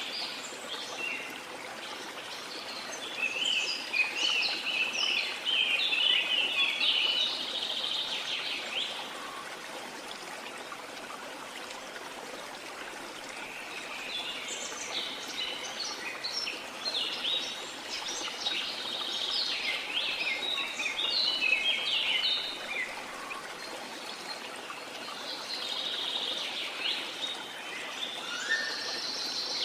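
Steady rush of a waterfall, with birds chirping and singing over it in bouts: a few seconds in, through the middle, and again near the end.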